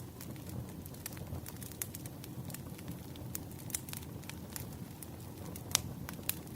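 Campfire burning: a steady low rumble of the flames with irregular sharp crackles and pops of burning wood, one louder pop near the end.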